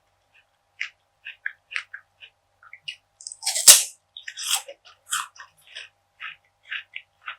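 Close-miked chewing of a crunchy food: a run of short, crisp crackles, with one loud crunching bite about halfway through followed by a quick cluster of crunches.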